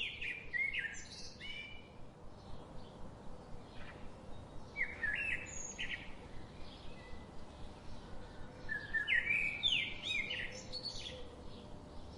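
A songbird singing in short phrases of quick rising and falling whistled notes, three bouts: at the start, about five seconds in and about nine seconds in.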